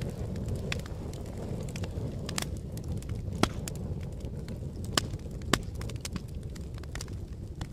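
Fire crackling over a low steady rumble of flames, with irregular sharp pops; three louder pops come about three and a half, five and five and a half seconds in.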